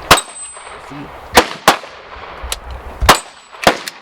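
Five sharp gunshots at uneven intervals, two of them close together about a second and a half in.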